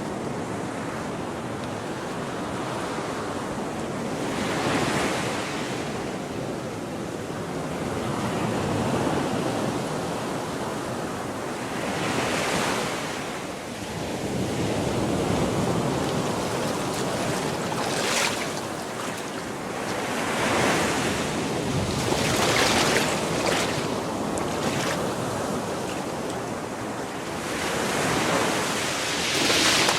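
Gulf of Mexico surf: waves breaking and washing up the beach, swelling every few seconds over a steady wash, with wind on the microphone.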